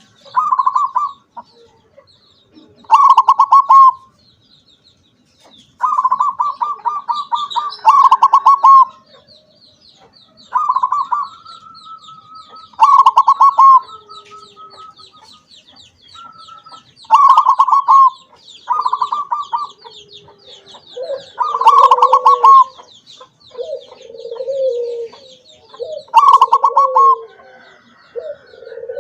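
Perkutut (zebra dove) cooing: short trilled coo phrases repeated every two to four seconds. In the second half, lower-pitched coos alternate with them, and a faint high chirping runs steadily underneath.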